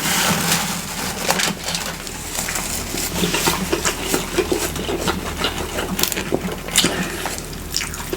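A person chewing a mouthful of a fried salmon sandwich close to the microphone: wet mouth sounds with many small sharp clicks, and a few brief low hums of appreciation.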